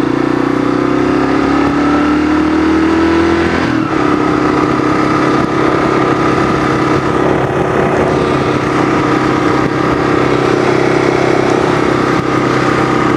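Kawasaki KLR650's single-cylinder engine running while the motorcycle is ridden. Its pitch rises slowly for about four seconds, breaks briefly, then holds steady.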